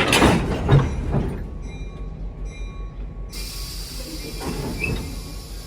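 Railroad equipment being shoved together for a coupling: a run of loud clanks and knocks in the first second or so, then a steady hiss that starts suddenly about three seconds in.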